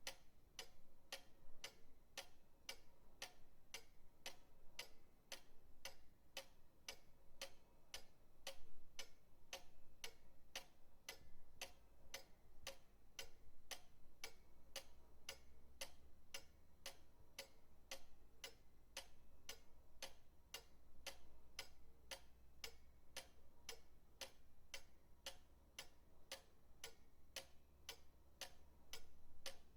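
Pendulum clock ticking steadily and evenly, about two ticks a second.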